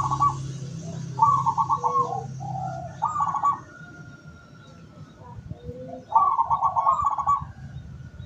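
Zebra dove (perkutut) cooing: four phrases of rapid staccato trilled coos, with softer single coo notes between them.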